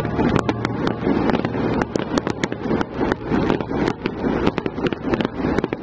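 Fireworks going off: a rapid, irregular run of sharp bangs and crackles over a dense rumble.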